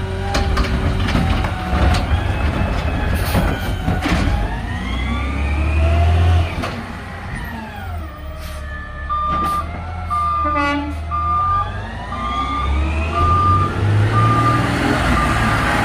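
Garbage truck's diesel engine running and revving up and down, then from about nine seconds in its backup alarm beeping in steady pulses as the truck reverses.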